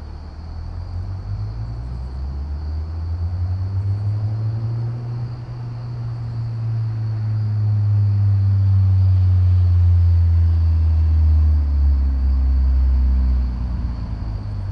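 1990 Mazda Miata's 1.6-litre four-cylinder engine running through a freshly installed Enjuku ISIS cat-back exhaust with the stock cat and manifold, giving a deep exhaust note. The engine note climbs in pitch over the first few seconds, then eases slowly down while growing louder, and drops off near the end.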